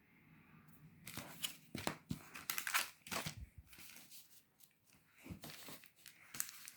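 Plastic wrapper of a Wunder-Baum cardboard car air freshener being torn and crinkled open in bursts, with a pause midway and a few more crinkles near the end.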